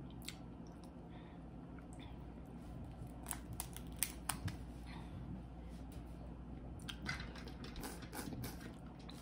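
Boiled crawfish being cracked and peeled by hand: faint, scattered shell cracks and clicks, clustered around the middle and again near the end.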